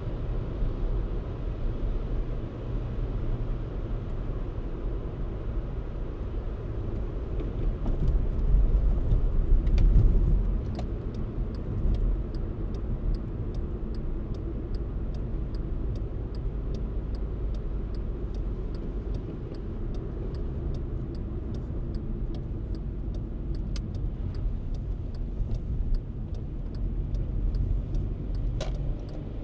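Steady low rumble of a car driving: engine and tyre noise, swelling louder about eight to ten seconds in. From about twelve seconds in a faint, even ticking runs alongside, about two ticks a second.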